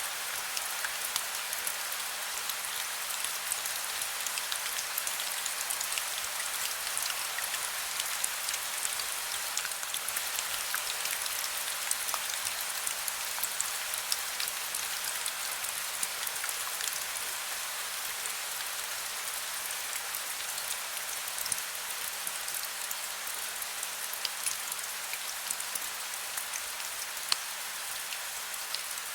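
Heavy rain falling steadily: a dense hiss of many small drop ticks, with no thunder.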